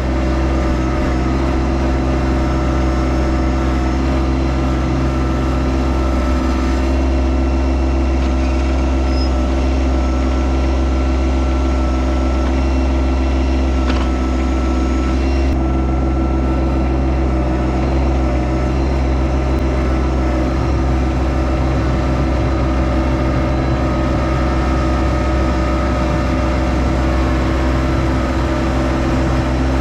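Yanmar SA324 compact tractor's three-cylinder diesel engine running steadily at a constant speed, with one brief click about halfway through.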